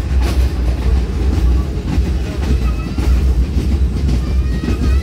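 Passenger train running on the rails, a steady heavy low rumble.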